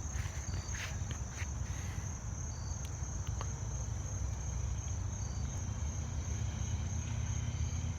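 2016 Harley-Davidson Ultra Glide's V-twin engine idling with a low, steady rumble.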